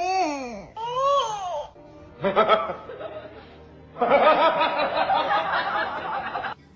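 Two drawn-out vocal calls that rise and fall in pitch, followed by laughter over music that cuts off suddenly near the end.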